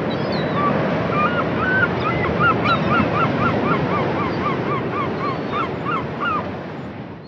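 Birds calling: a quick run of short calls that rise and fall in pitch, about three a second, over a steady rushing noise.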